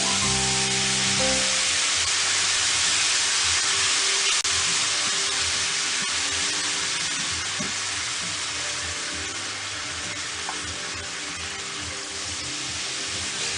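Vegetable broth hitting a hot olive-oil-and-flour roux in a pan, sizzling hard and slowly dying down as the liquid takes up the heat.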